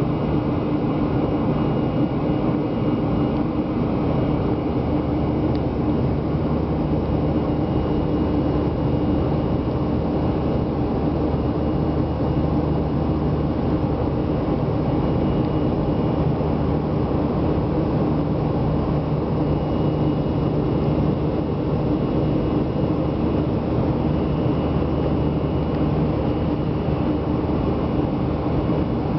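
Airliner engines heard from inside the passenger cabin in flight: a steady, even drone with a constant low hum.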